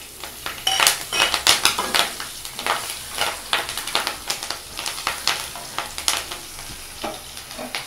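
Green chillies sizzling and frying in hot ghee and oil in a kadai, stirred with a wooden spatula in repeated short scraping strokes. The frying is loudest at first and eases off near the end.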